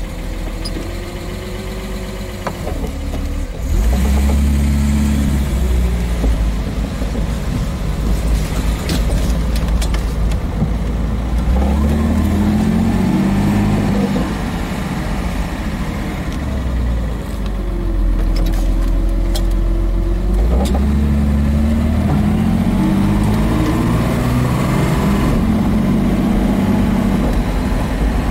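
1965 Mercedes-Benz 230SL's 2.3-litre straight-six engine driving along. It pulls away about four seconds in and climbs in pitch as it accelerates. It eases off around the middle, then picks up again.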